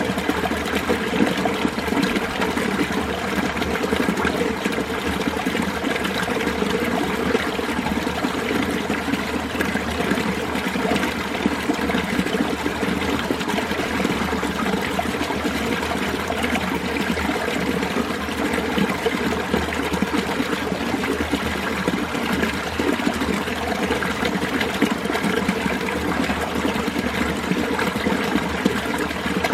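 Mountain valley stream in winter, water flowing and trickling over rocks in a steady, unbroken rush.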